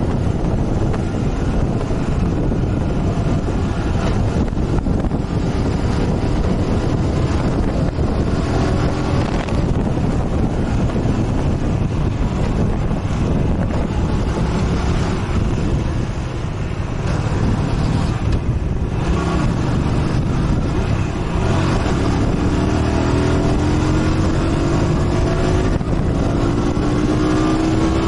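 Motorcycle engine running under way, with wind rushing over the microphone. The engine eases off briefly around the middle, then its pitch climbs steadily near the end as it accelerates.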